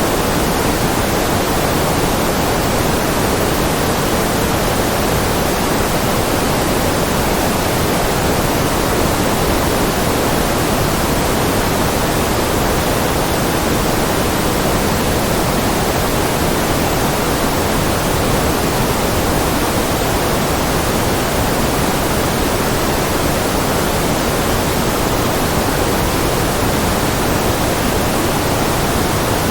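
Continuous electronically generated noise, an even, unchanging hiss. It is fuller in the lower middle than in the highs, more like pink noise than a thin white hiss.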